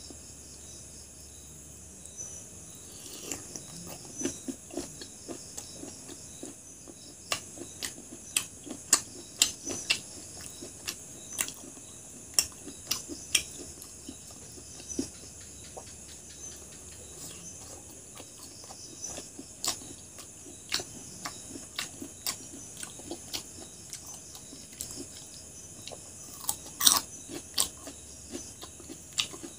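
Close-up mouth sounds of someone eating chicken gizzard curry and rice by hand: irregular wet smacks, clicks and chewing, loudest about 27 seconds in, over a steady high hiss.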